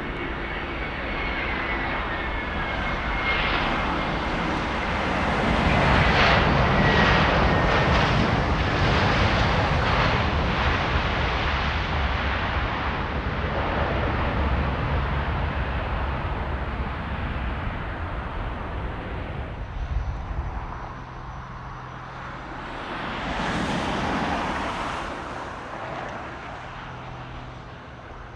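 Jet airliner passing the airport, its engine noise swelling to a peak several seconds in and then slowly fading, with a high whine falling slightly in pitch early on. A second, fainter swell of engine noise comes near the end.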